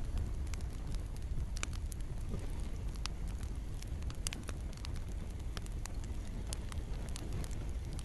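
Campfire crackling, with irregular sharp pops and snaps over a steady low rumble, and rain falling.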